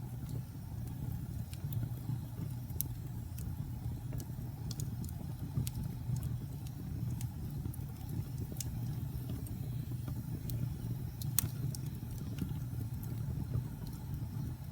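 Wood fire in a fireplace crackling: scattered sharp pops and snaps over a steady low rumble of the burning fire, with one louder pop about eleven seconds in.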